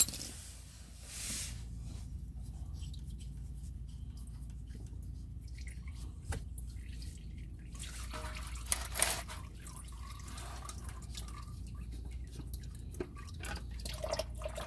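Engine oil dripping from the opened oil filter housing into a drain pan, with a few light clicks from handling the housing, over a steady low hum.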